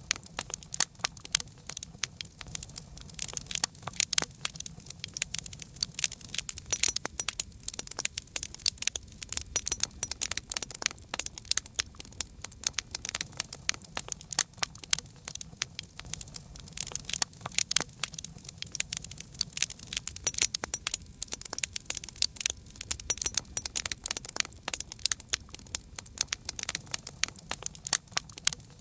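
Wood fire crackling, with dense, irregular pops and snaps over a soft low rumble.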